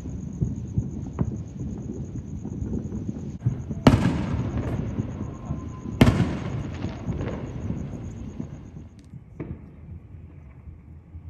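Aerial fireworks going off: a continuous rumble and crackle of bursting shells, with two loud booms about four and six seconds in, growing quieter toward the end.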